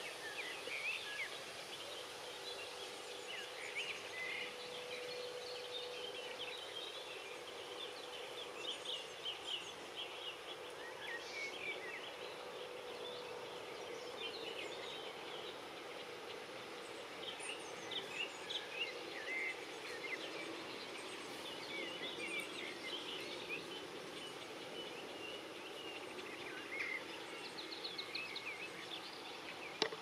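Many small birds chirping and twittering steadily throughout, over a faint steady hum and background noise.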